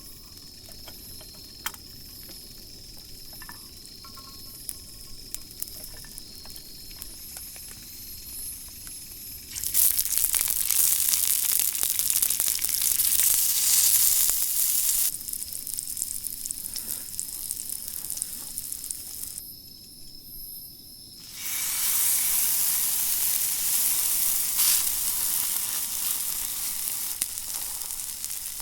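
Sizzling like food frying in a hot pan starts abruptly about ten seconds in, eases off, stops for a moment around twenty seconds and then comes back loud. Before it, crickets chirp steadily.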